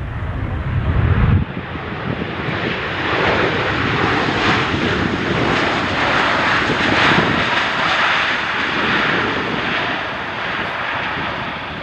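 Aircraft engines passing close: a deep rumble cuts off abruptly about a second and a half in, then a loud, steady engine noise swells and eases off slightly near the end.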